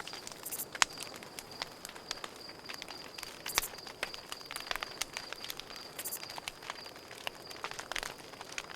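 Campfire crackling, with irregular sharp pops and snaps of wood, over crickets chirping steadily in a high-pitched pulsing trill.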